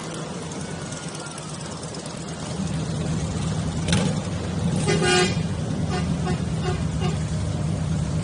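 Motorcycle engines running in a slow group ride, the low rumble growing louder partway through. A sharp click about four seconds in, then a short horn honk about a second later.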